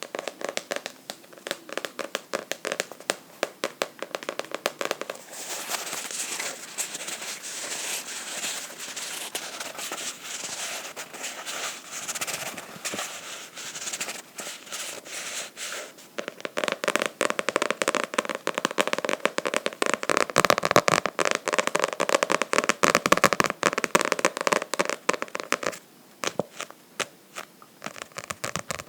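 Fingernails scratching and tapping rapidly on a book, a dense crackle of small clicks. It gets louder about halfway through and stops briefly near the end.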